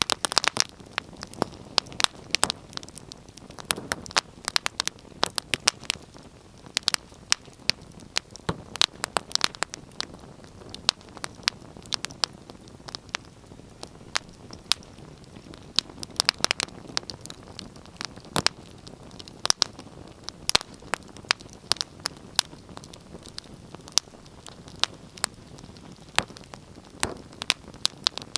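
Wood fire crackling: irregular sharp pops and snaps over a low steady hiss of burning.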